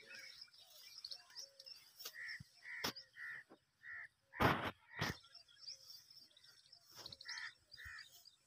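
Birds cawing again and again in short harsh calls, over a faint steady high hiss. Bushes rustle and crackle as someone pushes through dense brush, loudest about halfway through.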